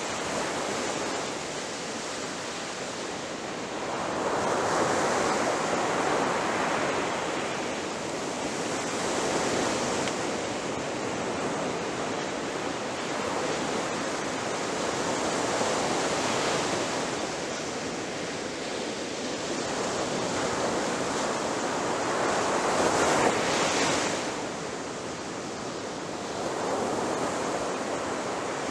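Ocean waves breaking on a shore: a continuous wash of surf that swells and fades every five or six seconds, with the biggest break about three-quarters of the way through.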